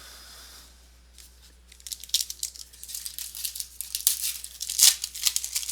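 Plastic trading-card pack wrapper being torn open and crinkled by hand. The crackling starts about two seconds in and keeps going.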